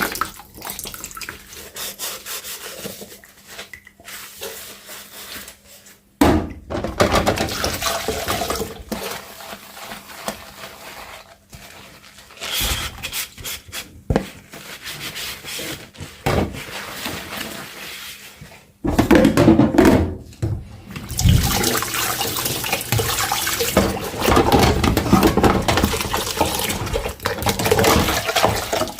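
Running water from a kitchen tap splashing over dishes in a sink, growing louder and softer in stretches, with a few sharp knocks of dishes.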